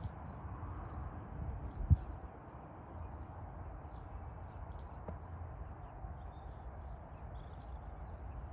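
Small birds chirping and singing over a steady low outdoor rumble, with a single sharp knock about two seconds in.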